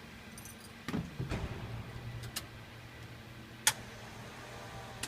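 Keys jangling and knocking at the ignition of a 1970 Buick GS, with a steady low hum setting in about a second in and a single sharp click a little past halfway, before the engine is started.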